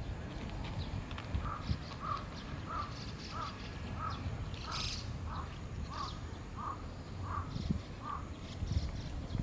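A bird calling in a steady series of about eleven short, slightly falling notes, roughly one and a half a second, over a low background rumble.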